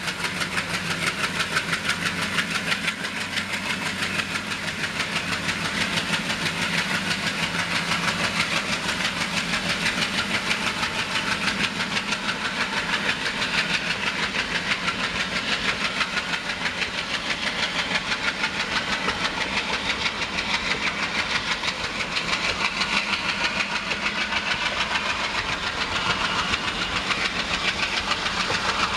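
Passenger coaches rolling past on the rails with a fast, steady clatter of wheels. Under it runs the engine of the WDG 3A diesel locomotive hauling them, working under power; the engine is plainer in the first half and fades as the locomotive draws away.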